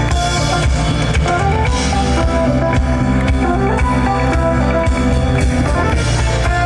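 Live band playing an instrumental passage of a pop song, with a steady drum beat and guitar.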